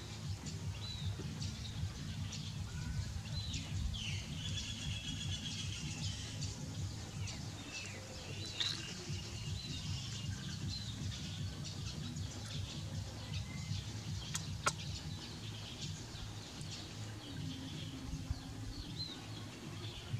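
Small birds chirping in scattered short high calls and a few brief trills, over a steady low rumble, with one sharp click about three-quarters of the way through.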